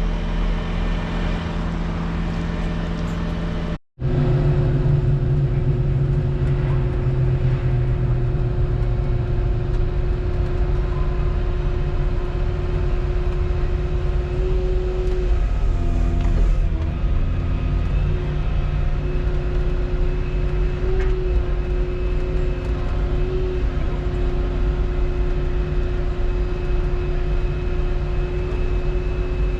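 Volvo 235EL excavator's diesel engine and hydraulics running steadily, with a steady whine over the engine's hum. The sound drops out briefly about four seconds in.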